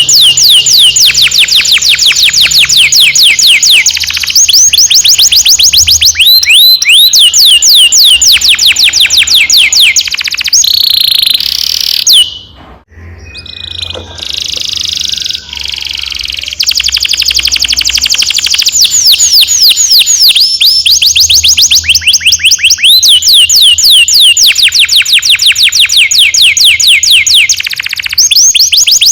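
Domestic canary singing close up in long rapid rolls: fast, evenly repeated, downward-sweeping high notes strung into extended trills. The song breaks off briefly about twelve seconds in, then resumes.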